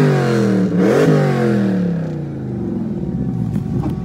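The supercharged 6.2-litre Hemi V8 of a 2018 Dodge Charger Hellcat, straight-piped with a stage-three cam and tune, heard from inside the cabin: its revs fall away from a blip, rise in a second quick rev about a second in, then drop to an uneven, choppy idle.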